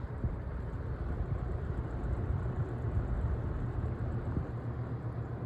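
Holmes HABF-20 box fan running on low speed: a steady rush of air over a low hum. Its blade is badly out of balance.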